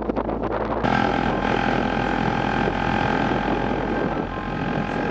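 A motor running steadily, its sound changing abruptly about a second in to a steady hum.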